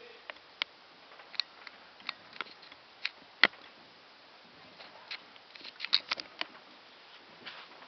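Fireworks popping and crackling at irregular intervals over a faint hiss. The sharpest crack comes a little past three seconds in, and a quick run of pops comes around six seconds in.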